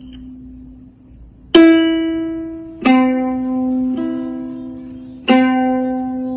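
Plucked-string music: four slow notes, each struck sharply and left to ring and fade, the third softer than the others.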